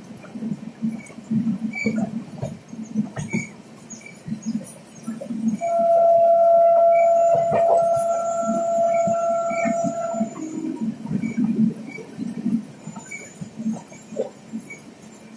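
Passenger train running at speed, heard from inside a coach: wheels clattering and rumbling on the rails. About six seconds in, a single long horn blast on one steady note sounds for about four seconds, typical of the locomotive's horn.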